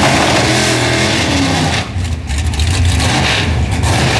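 Drag-racing car's engine revving hard while staged on the starting line. Revs climb for the first second and a half, dip briefly about two seconds in, then settle into a strong low rumble.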